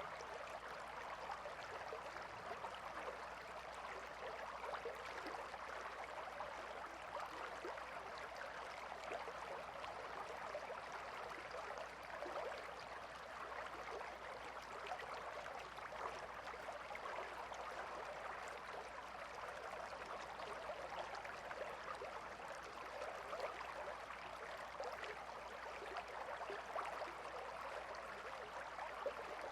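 A calm river flowing over stones: a steady, continuous rush of water with fine trickling and bubbling.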